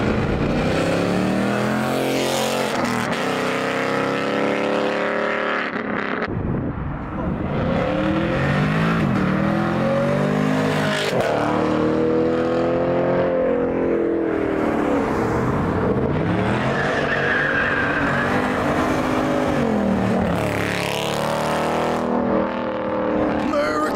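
Several muscle cars, among them a Chevrolet Camaro and a Dodge Charger, accelerating hard past one after another, each engine revving up through its gears and then falling away as it goes by.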